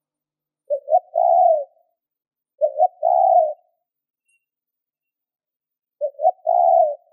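Spotted dove cooing: three phrases, each two short notes followed by a longer held note, a couple of seconds apart.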